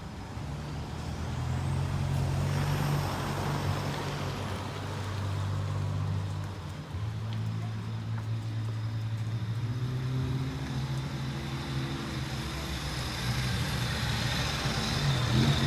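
A large motor vehicle's engine running at low revs on a street, a steady low hum that settles in about a second in, with engine revs starting to rise near the end.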